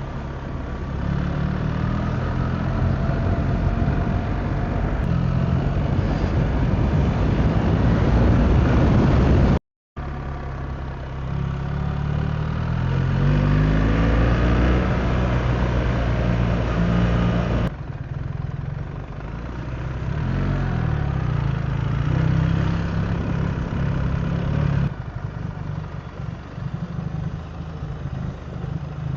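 BMW R 1300 GS Adventure's boxer-twin engine running while the bike is ridden, its pitch rising and falling with the throttle, over wind and road noise. The sound breaks off completely for a moment about ten seconds in and changes suddenly twice later on.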